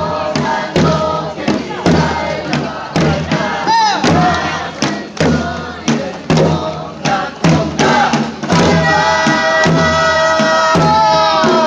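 Live music from a percussion ensemble: loud, regular drum and gong strikes under a wind instrument's held tones, which bend in pitch. Voices join in with group shouts. From about eight seconds in, the held tones carry on more steadily and the strikes thin out.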